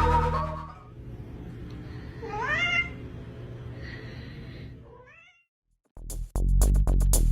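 A domestic cat meowing: one clear rising meow about two and a half seconds in, and a fainter, shorter one near five seconds. Background music fades out at the start, and electronic music with a steady beat starts loudly about six seconds in.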